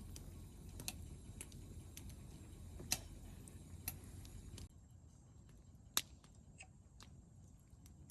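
Burning firewood crackling: irregular sharp pops and snaps over a low background rumble, which drops abruptly about halfway through.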